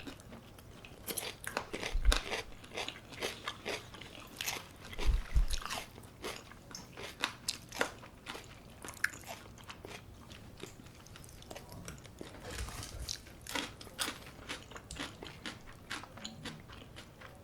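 Close-miked biting and chewing of crunchy brown-rice-crusted baked chicken: a steady run of irregular crisp crunches, with harder bites about 2 and 5 seconds in.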